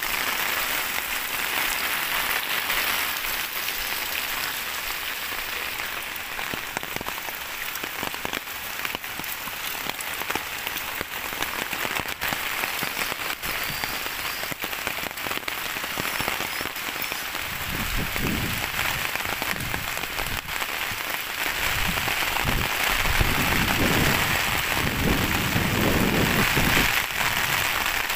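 Heavy rain falling steadily, an even hiss of rain on the ground and surroundings. In the second half a low rumbling comes and goes for several seconds over the rain.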